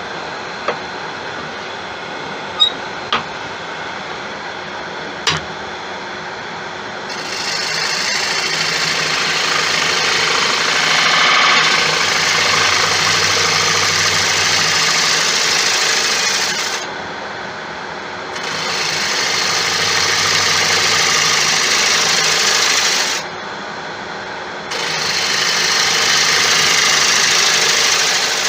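Laguna 1836 wood lathe running with a steady hum while a turning tool cuts into a large spinning tiger wood blank. The cuts are three long passes of loud scraping and hissing, each several seconds, with short breaks between them. A few light clicks come in the first few seconds.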